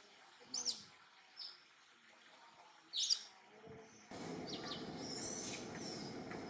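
Birds chirping: a few sharp, high chirps in the first three seconds, then from about four seconds in a denser run of chirps over a steady outdoor hiss.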